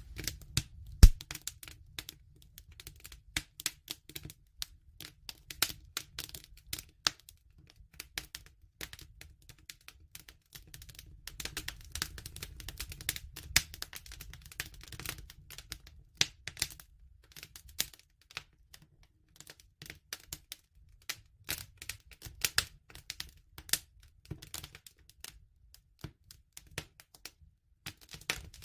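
Wood fire crackling: irregular sharp pops and snaps over a low steady rumble, with the loudest pop about a second in.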